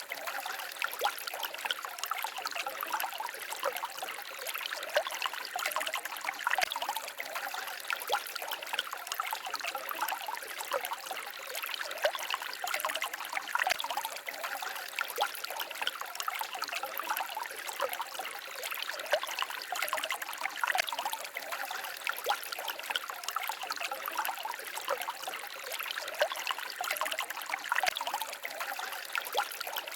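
Small stream babbling and trickling, a steady splashing without deep rumble.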